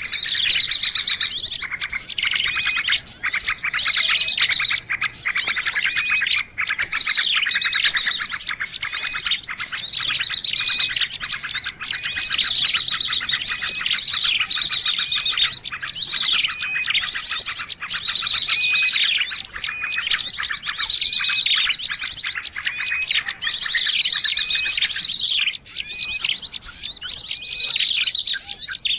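Many small birds chirping and trilling together in a dense, continuous chorus of high calls and rapid trills: a bird-lure recording for attracting small birds.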